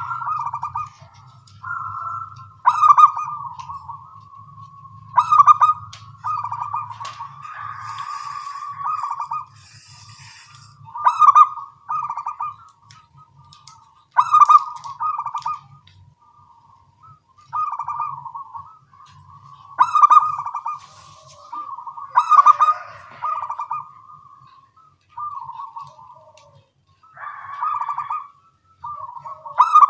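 Zebra doves (perkutut) cooing and answering one another, each short trilling phrase coming every two to three seconds.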